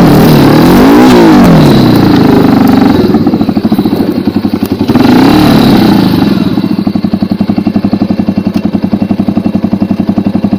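Racer 250 K2 dirt bike's single-cylinder four-stroke 172FMM engine revving up and back down twice, then settling into a lumpy, evenly pulsing idle.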